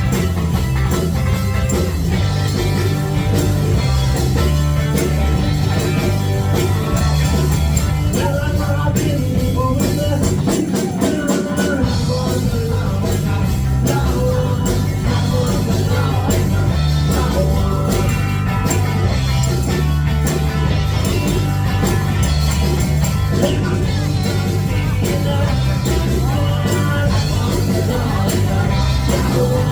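Live rock band playing at full volume, with electric guitar, bass and drums under a vocal. The bass and low end drop out briefly about eleven seconds in.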